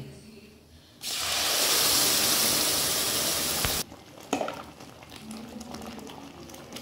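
Wet ground tomato-and-onion paste hitting hot oil and butter in a kadai, sizzling loudly for about three seconds before it cuts off sharply. After that the thick sauce bubbles and crackles faintly, with a single click.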